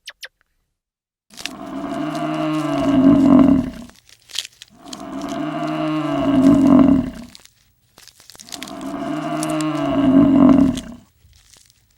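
Cow mooing: three long moos of about three seconds each, one after another, with short pauses between them.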